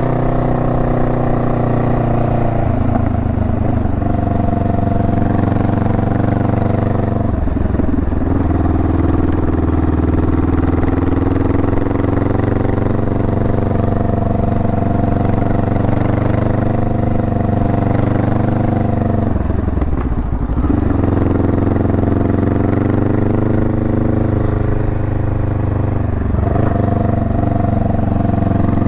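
Honda Rebel 500's parallel-twin engine running under way on the road, its note steady but dipping briefly three times, about a quarter of the way in, two-thirds of the way in and near the end, with the pitch changing after each dip.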